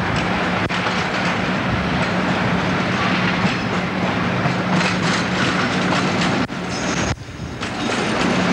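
Diesel freight locomotive running past with a steady engine drone, hauling hopper wagons whose wheels clatter over the rail joints. The sound dips briefly about seven seconds in.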